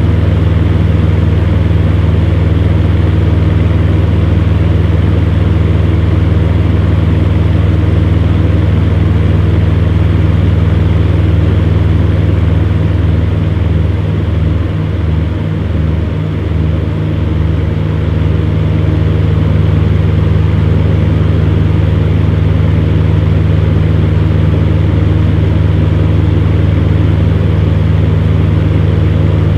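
Electric fan heater running: a steady low motor hum under the rush of blown air. For a few seconds around the middle the hum wobbles in a slow beat.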